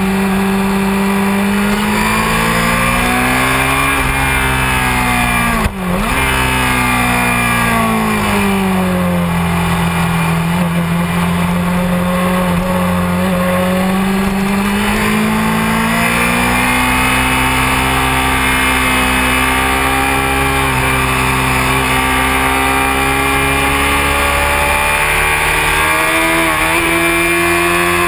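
Honda CBR600F4i's inline-four engine under hard riding, its pitch rising and falling with throttle and gear changes. About six seconds in the note dips sharply and briefly, then climbs slowly again; near the end it jumps up quickly.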